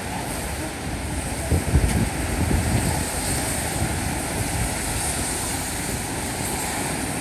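Steady hiss of light rain with wind rumbling on the microphone.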